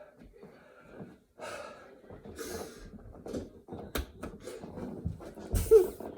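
A man breathing hard from exertion, with separate heavy exhales. There is a sharp knock about four seconds in, and a louder breath with a short voiced grunt near the end.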